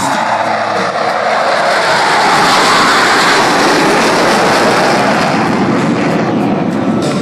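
Blue Angels F/A-18 Hornet jets, powered by General Electric F404 engines, pass at full afterburner with a thunderous jet roar. The roar swells to its peak in the middle and then eases off.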